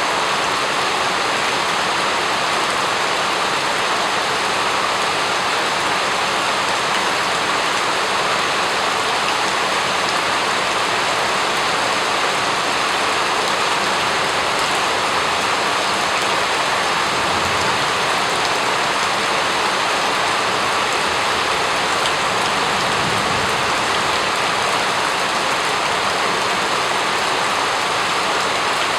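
Steady rain falling and pattering on a surface, an even, unchanging hiss.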